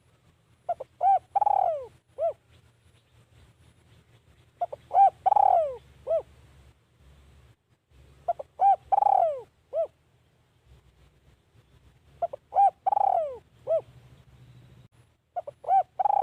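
Spotted dove cooing its repeated song phrase: two short coos, a longer falling coo, then a short final coo, repeated about every four seconds.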